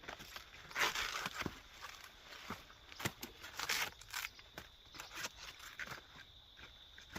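Irregular rustling, crackling and snapping of dry plant material being handled or trampled, loudest about a second in and again around three to four seconds in.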